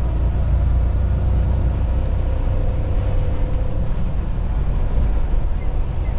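Steady drone of a 2024 Freightliner semi truck's engine and road noise heard from inside the cab while driving, strong and low, with no sudden changes.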